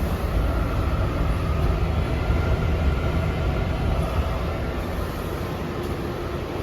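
Steady hum and rush inside an R142A subway car standing in the station, from its ventilation and electrical equipment, with a few faint held tones.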